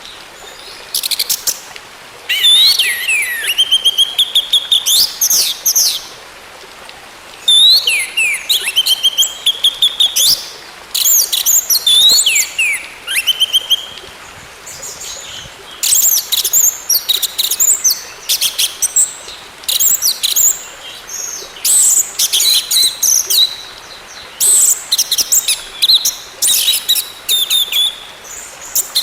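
Orange-headed thrush singing: phrases of fast, high chattering notes mixed with whistled notes that swoop down and then hold steady, repeated with short pauses between phrases.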